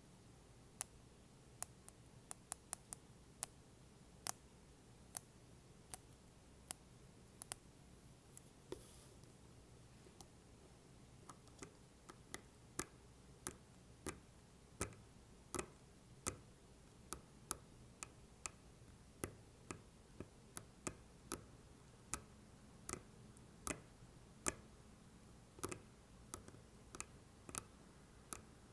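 Apple Pencil tapping on an AirPods case cover: sharp, separate clicks at an uneven pace of one or two a second, with a brief scrape about nine seconds in.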